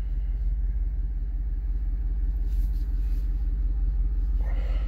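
Jeep Wrangler 392's 6.4-litre HEMI V8 idling steadily, heard from inside the cabin.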